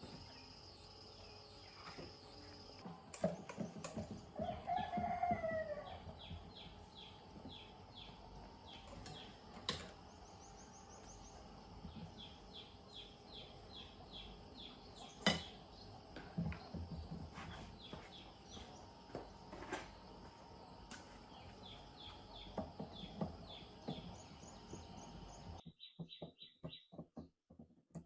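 A rooster crowing once about four to five seconds in, over repeated rapid, high chirping trills and a few sharp knocks.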